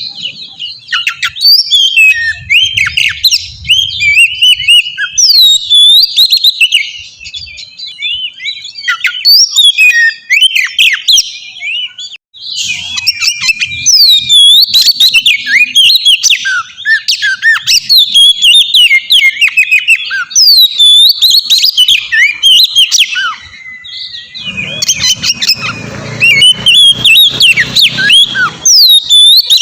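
Oriental magpie-robin singing a rapid, varied stream of loud whistles, chirps and slurred notes, broken by a brief gap about twelve seconds in.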